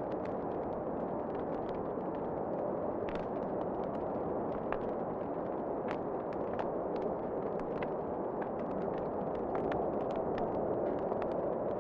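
Wood fire burning in a fireplace: a steady low rushing, with frequent sharp crackles and pops at irregular intervals.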